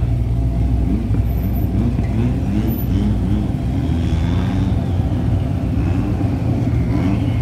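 Drag cars' engines running at the starting line after a burnout: a steady, heavy low rumble with short rises in pitch repeating about every half second, as the engines are blipped or lope at idle.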